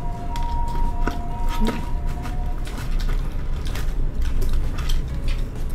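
Close-up mukbang eating sounds: chewing fried chicken and pizza, with many small sharp clicks and wet mouth smacks.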